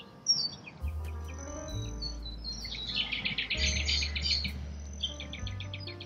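Birds chirping, with a rapid chattering trill about halfway through that is the loudest sound, over soft background music with long held low notes.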